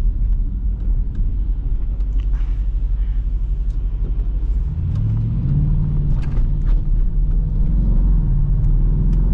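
Jeep Grand Cherokee SRT's V8 with a mid-muffler delete, a steady low exhaust rumble while driving. About five seconds in, the engine note comes up louder and rises slightly as the Jeep pulls harder.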